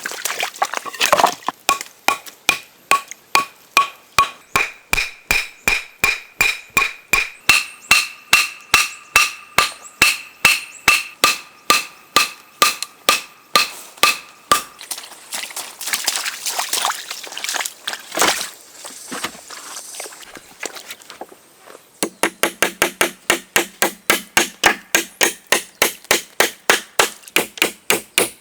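Repeated hammer blows in a steady rhythm, about two to three a second, with a ringing tone under the first half. After a looser pause the blows pick up again, a little faster, near the end.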